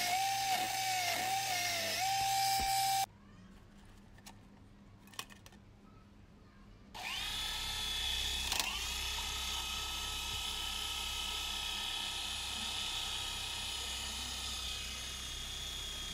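A small electric motor whining at a steady pitch cuts off about three seconds in. A few seconds later it starts again, the whine rising quickly as it spins up, then running steadily, with a sharp click soon after the restart.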